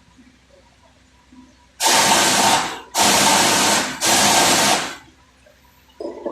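Compressed-air tool hissing in three bursts of about a second each, with short gaps between them.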